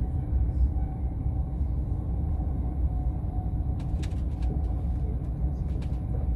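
Euroduplex TGV high-speed train running: a steady low rumble with a faint steady hum above it, and a few light clicks about four seconds in.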